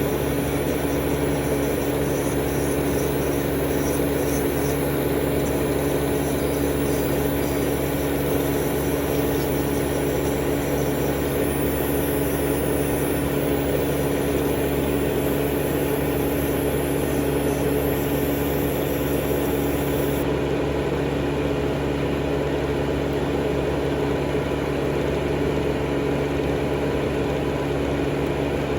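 Steady electric motor hum from manicure machinery, with a high hiss that drops away about two-thirds of the way through while the hum goes on.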